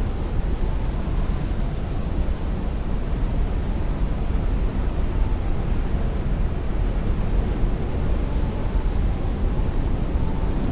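Heavy rain and strong wind heard against a window, a steady rushing noise heaviest in the low end with no separate drops or gusts standing out.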